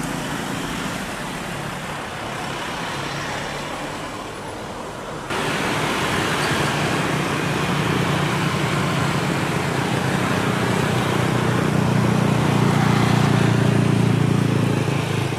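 Jet airliner engine noise heard from near the runway, a steady rumble with a low hum. It cuts abruptly about five seconds in to louder jet noise that builds toward a peak near the end, as an airliner spools up and rolls for takeoff.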